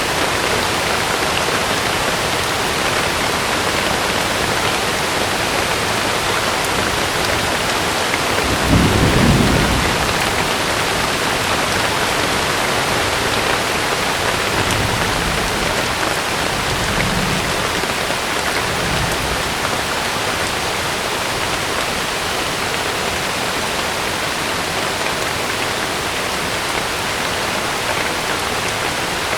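Heavy rain falling on a camping tent, a steady hiss, with a rumble of thunder about nine seconds in and a few fainter low rumbles after it.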